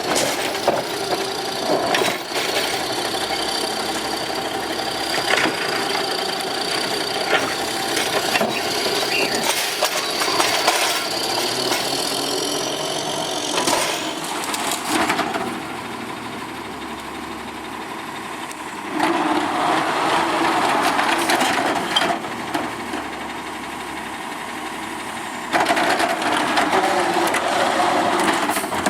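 Automated side-loader garbage truck at work: the diesel engine runs under a clatter of knocks and bangs over the first half, as a cart is lifted and tipped into the hopper. It gets quieter about halfway in, then louder twice more, about two-thirds of the way in and near the end.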